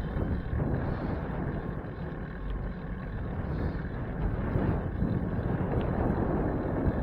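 Wind buffeting the microphone of a camera on a moving bicycle: a steady low rumbling rush.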